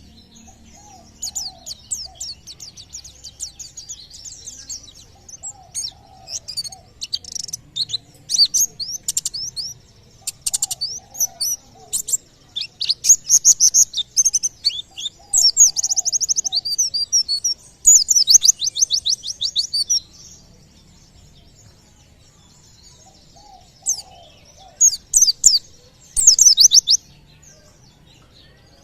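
White-eye (pleci) singing in rapid, high trilled bursts (the fast "tembakan" song) with short gaps between phrases. It falls quiet for a few seconds about two-thirds of the way in, then trills again near the end. This is the kind of song believed to prompt nearby birds to start singing.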